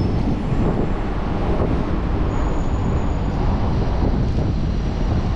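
Steady city traffic and wind rushing over the microphone of a moving bicycle.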